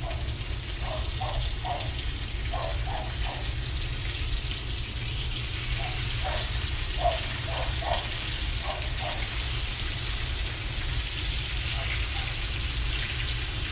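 Fish fillets searing in hot oil and butter in a frying pan, with a steady even sizzle.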